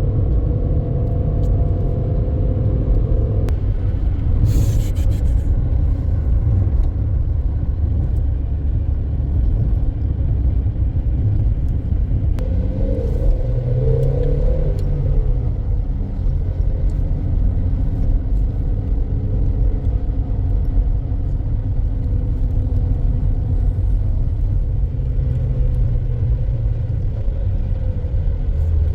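Steady car rumble of engine and road noise from a moving car, with a few tones rising and falling in pitch in the middle.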